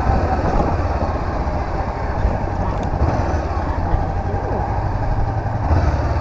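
Honda CB 500X's parallel-twin engine running steadily while the motorcycle is ridden, under a continuous rush of noise.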